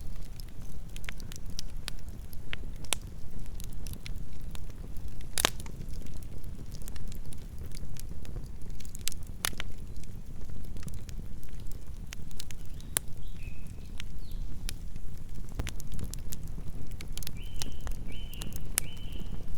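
Campfire burning: a steady low rumble of flames under scattered crackles and pops from the burning wood, with a sharper pop about five seconds in. A few short, high chirps come in near the end.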